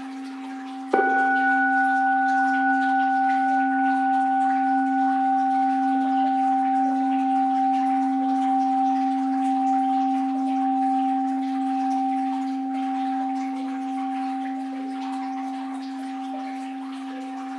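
An orin, a Buddhist bowl bell, struck once about a second in and left to ring, its higher overtones dying first while the low hum fades slowly. Faint water runs underneath.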